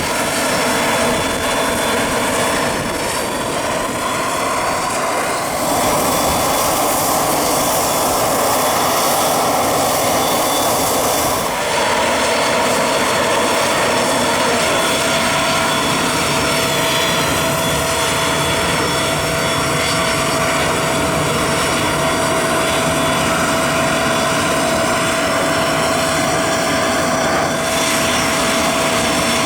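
Aircraft turbine engines running loud and steady, a rushing noise with a high whine over it; a clear whining tone sets in about twelve seconds in.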